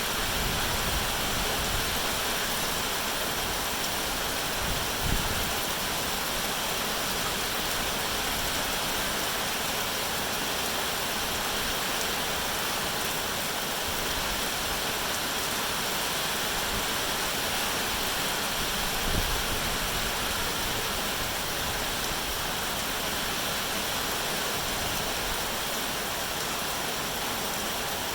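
Steady, dense rain hiss. Two brief low thumps come through it, about five seconds in and again some fourteen seconds later.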